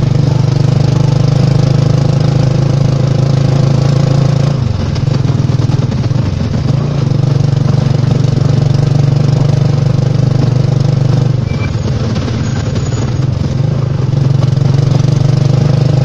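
Motorcycle engine of a Philippine tricycle running steadily under the sidecar passenger, with tyres hissing on the wet road. The engine note drops about five seconds in and again near twelve seconds as it eases off, then picks back up.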